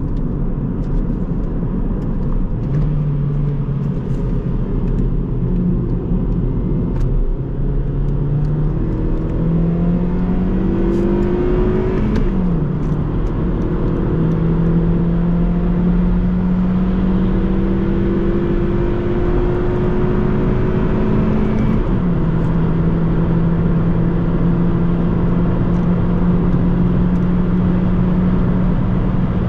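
Hyundai i30's 1.4-litre four-cylinder petrol engine pulling hard through the gears over a steady road and wind rumble: the engine note climbs, drops at a gear change about twelve seconds in, climbs again, drops at another gear change a little past twenty seconds, then holds steady.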